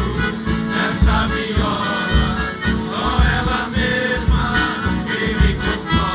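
Live Brazilian caipira band music: a reedy lead melody over a steady bass beat.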